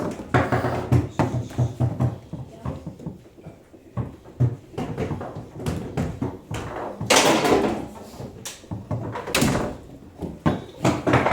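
Foosball table in play: the ball knocking against the figures and the table walls, with rods clacking, a quick run of low knocks between one and two seconds in, and sharp loud hits about seven and nine seconds in.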